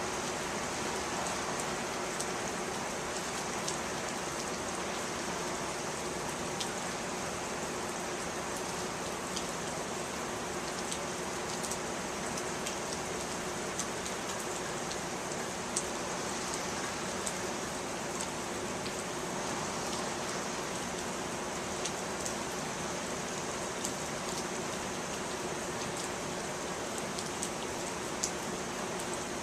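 Steady heavy rain from a summer monsoon storm, with scattered sharp ticks of drops striking a nearby surface.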